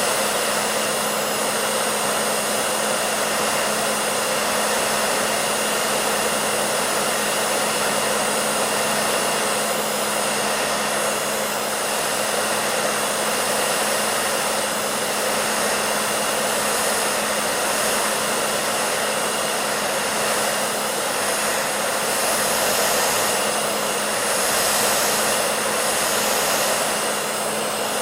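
Hair dryer running steadily: a constant airy whoosh with a low motor hum underneath.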